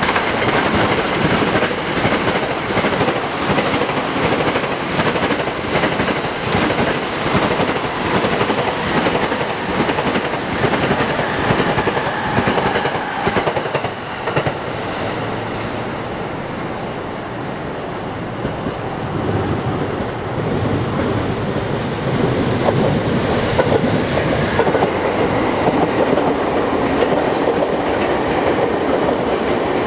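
Electric commuter trains passing on nearby tracks, with a steady rumble of wheels and a rapid clatter over rail joints. The noise eases for several seconds about halfway through, then builds again as another train rolls past close by.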